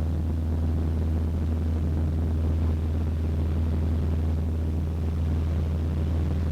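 Cessna 152's four-cylinder Lycoming engine and propeller droning steadily, heard from inside the cockpit: a deep, even hum with a few steady tones above it and no change in power.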